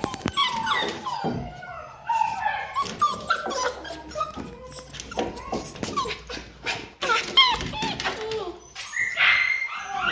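Pomsky puppy whining and yipping in a run of short, high calls that mostly fall in pitch, with a few sharp clicks among them.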